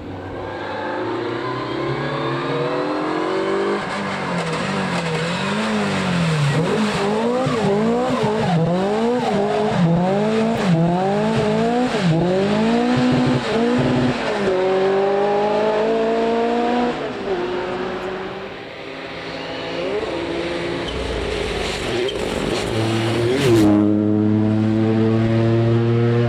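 Rally car engine at full effort on a stage. Its revs swing rapidly up and down, about twice a second, through the middle as the throttle is worked, then climb through upshifts. The sound dips briefly, and the engine revs again near the end.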